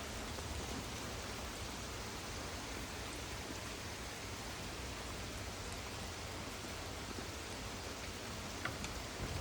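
Steady thunderstorm rain, a continuous even hiss, with a few sharp drop ticks near the end.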